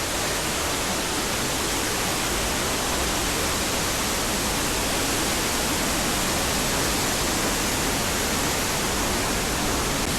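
Steady rushing of a large waterfall close by, an even, unbroken roar of falling water.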